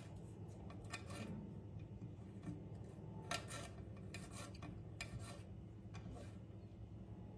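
Scattered light clicks and scraping, several short clicks a second or so apart over a low steady hum.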